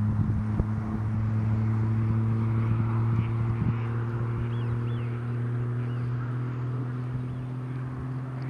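A steady low mechanical hum, like a motor running, with a few knocks in the first second and faint high chirps in the middle.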